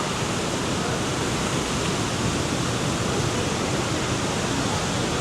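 Waterfall rushing steadily, an even roar of falling water with no letup.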